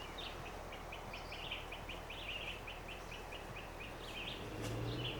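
A bird calling in a rapid series of short rising chirps, about four a second, kept up steadily. A low hum comes in near the end.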